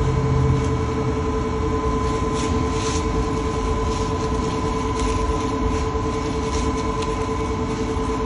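Steady drone of running shop machinery, a constant hum over a low rumble, with a few faint rustles of handling.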